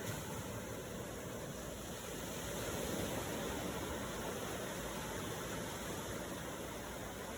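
Steady wash of ocean surf, swelling a little about three seconds in and then easing back.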